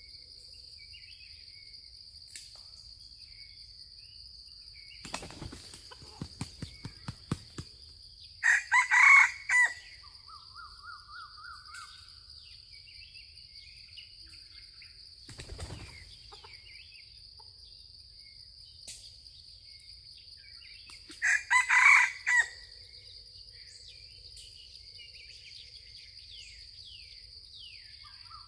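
Junglefowl rooster beating its wings in a quick run of flaps, then crowing a short loud crow; about twelve seconds later it crows again. A steady high insect drone runs underneath.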